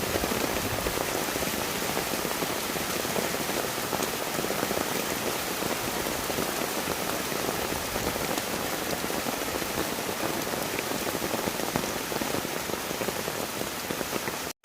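Heavy rain falling steadily, a dense even patter of drops on the ground and water, which cuts off abruptly just before the end.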